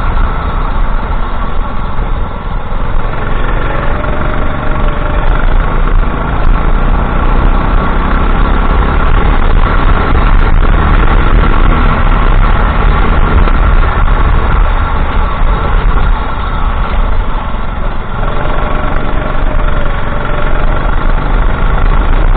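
Racing kart engine running loud and continuously, heard from onboard, over a deep low rumble; the sound dips briefly a couple of seconds in and again near the end.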